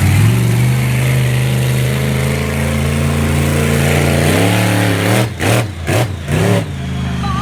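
Monster truck engine held at high, steady revs, then revved up and down in several quick blips about two-thirds of the way through before settling lower.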